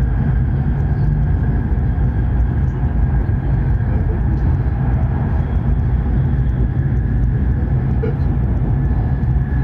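Hokuriku Shinkansen train running at speed, heard from inside the passenger cabin: a steady low rumble with a faint high whine over it.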